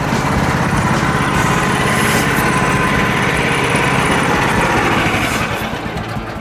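Portable sawmill's small engine running steadily, getting quieter near the end.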